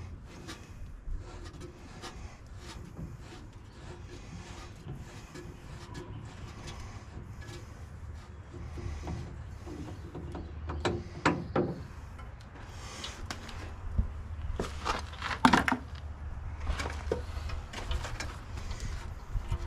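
Hand work on an excavator during a filter change: intermittent clicks, knocks and rubbing of tools and parts, with louder clattering about eleven seconds in and again around fifteen seconds, over a steady low hum.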